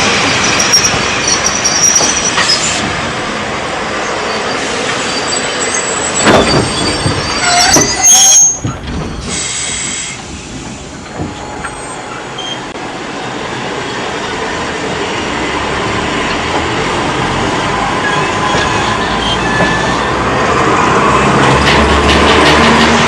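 Old-type Series 73 electric train running on steel rails, its wheels squealing with a high, thin screech over the clatter of the running gear. The noise is loudest around the middle, breaks off briefly, then builds again toward the end.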